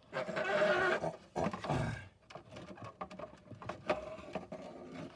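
A person's drawn-out groan over the first two seconds, its pitch falling at the end, followed by light clicks and taps of small parts being handled.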